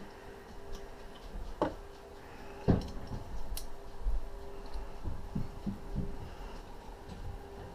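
Scattered clicks and light knocks of hand tools and metal engine parts being handled during engine disassembly, two sharper knocks about one and a half and two and a half seconds in, over a steady faint hum.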